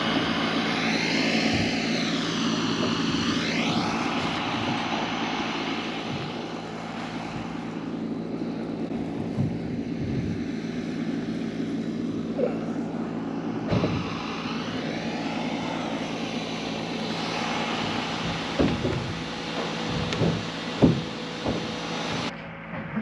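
A steady engine drone, with a few sharp knocks in the second half.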